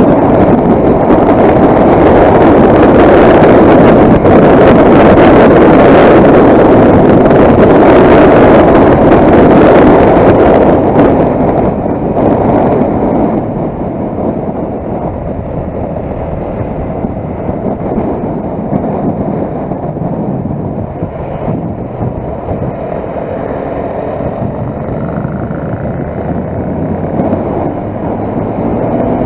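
Motorcycle riding noise: rushing wind and engine. It is loud for about the first ten seconds, then eases off and stays steady at a lower level.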